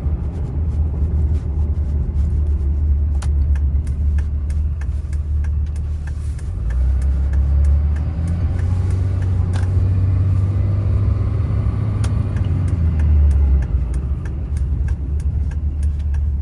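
2004 Dodge Ram 2500's 5.9L Cummins turbo diesel running while the truck is driven: a steady low rumble whose level shifts a couple of times, with a few light clicks.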